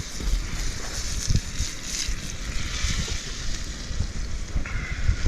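Wind buffeting the microphone in irregular low gusts over the steady hiss and crackle of a small campfire.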